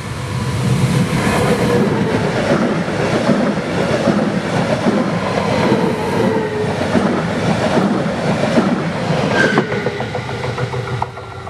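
A Eurobahn Stadler FLIRT electric multiple unit passing close by at speed: a loud rumble and rushing noise of the train, with repeated clicks of wheels over rail joints, dying away near the end.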